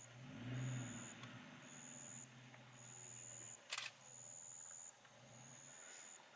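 Faint, high-pitched chirps repeating about once a second, typical of a night insect, over a low steady hum. There is one sharp click nearly four seconds in.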